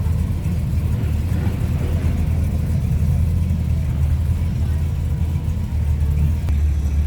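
Steady low rumble of classic car engines running.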